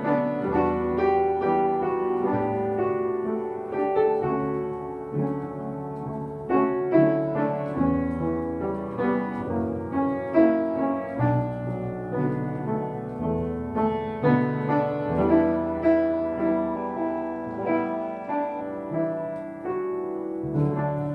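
Solo piano playing a slow, gentle melody over chords, note after note struck and left to ring.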